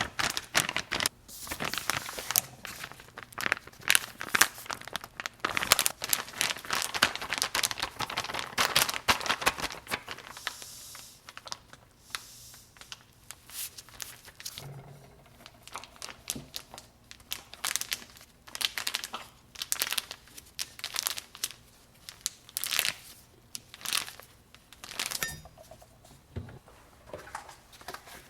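Packaging crinkling and rustling as it is handled, dense and continuous for about the first ten seconds, then in scattered short bursts.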